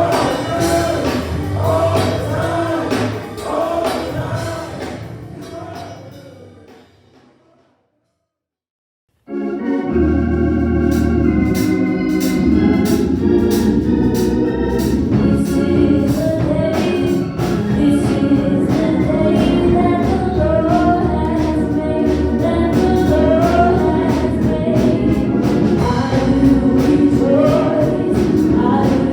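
Church gospel music with organ and singing fades out, is followed by a gap of about two seconds of silence, then another organ-led gospel piece with singing starts abruptly.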